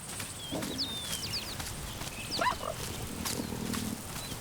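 Wild savanna ambience with birds giving short high chirps throughout. About two and a half seconds in there is a brief rising call, and just after it a low, rough growl from a big cat.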